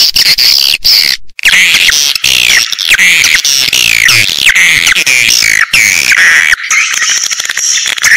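Swiftlet calls of the kind played from swiftlet houses to lure the birds in to nest: a dense chorus of shrill twittering, broken briefly about a second in, then a run of quick downward-sweeping chirps, two or three a second.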